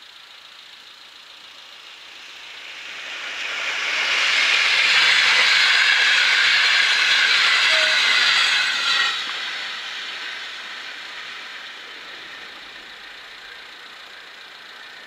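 A train passing over the level crossing: the rush of wheels on rail swells over about two seconds, stays loud for about five, drops off sharply as the train clears, then fades.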